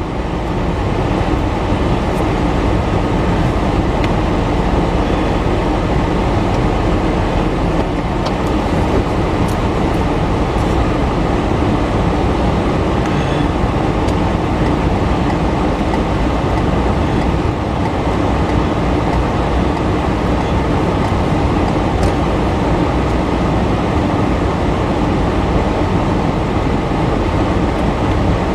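A train going by with a steady rumble of wheels on rail, holding at one level without a break.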